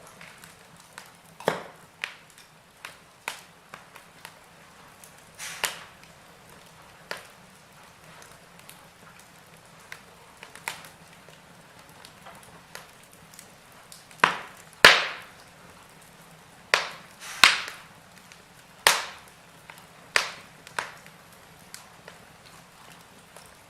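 Logs burning in a fireplace, crackling: irregular sharp pops over a faint hiss, with a run of louder pops in the second half.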